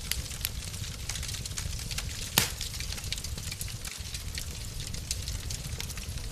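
Wood fire in a fireplace crackling, with many small scattered pops over a low steady rumble, and one sharp loud pop about two and a half seconds in.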